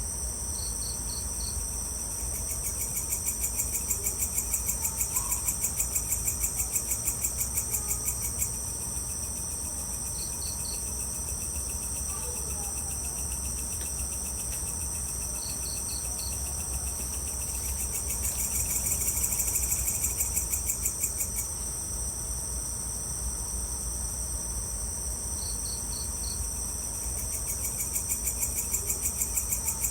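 Evening insect chorus: a steady, high-pitched, fast-pulsing chirring, joined three times by a louder rhythmic trill that lasts several seconds. Every so often there is a short group of three or four higher pips, over a steady low rumble.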